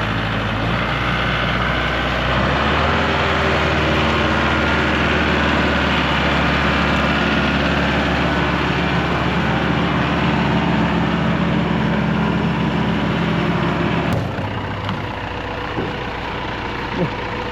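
Tractor engine running steadily at work, revving up a little about two seconds in and easing back off about fourteen seconds in.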